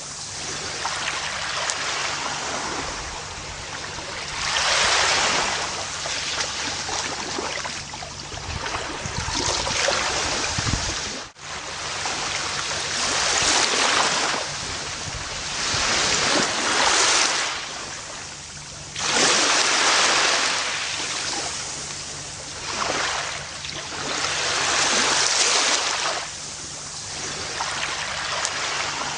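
Gentle ocean waves breaking and washing up a beach, the surf swelling and ebbing every few seconds. The sound drops out for an instant about eleven seconds in.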